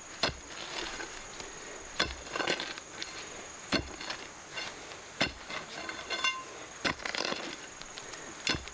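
Repeated chopping strikes, about one every second and a half, with lighter knocks between them.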